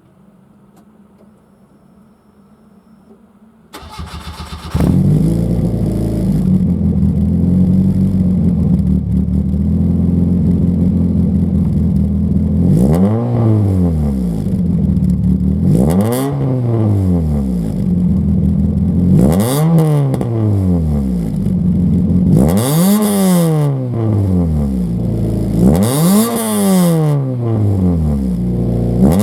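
Cammed Nissan SR20DE inline-four in an HP11 Primera, through a one-off 70 mm exhaust with no inner silencer: after a faint hum, the starter cranks briefly about four seconds in and the engine catches and idles. From about thirteen seconds it is free-revved in quick blips, each rising and falling sharply, five times at roughly three-second intervals.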